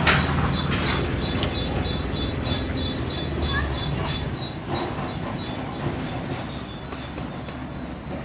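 A vehicle's low, steady rumble, slowly fading as it moves away.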